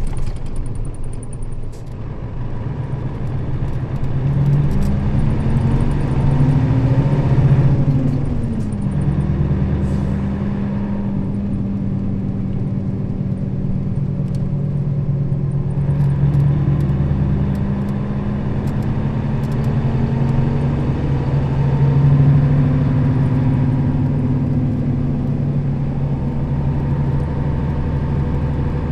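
Nissan Diesel KL-RA552RBN bus engine running under way. The revs climb for a few seconds and drop sharply about eight seconds in, as at a gear change, then hold steady at cruise, rising and easing again briefly later on.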